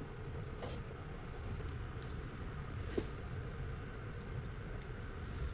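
A few faint, light clicks and taps of small metal watch parts and tools being handled, over a steady low rumble with a faint hum.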